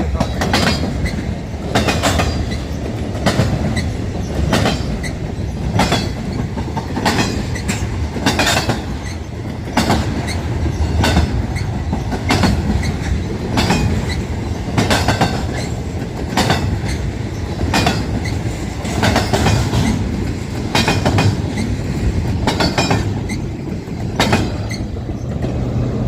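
Railroad car wheels clacking over rail joints, a sharp clack about every 1.3 seconds over a steady rumble. The track is rough, which the uploader calls messed up.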